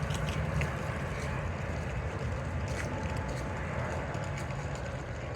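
Train running past with a steady low rumble and faint clicks from the rails.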